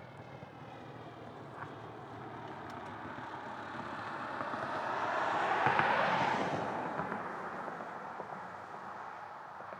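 A vehicle passing by: a rushing noise that swells to a peak about six seconds in, then fades away.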